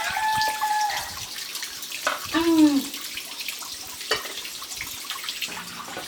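A rooster's crow holding a steady note and ending about a second in, followed a second later by a short call that arches and falls in pitch, over a faint background hiss.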